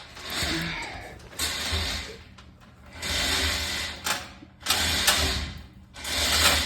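Repeated bursts of rapid mechanical ratcheting, each about a second long with short pauses between, as the jack holding up the TMR mixer's gearbox is let down.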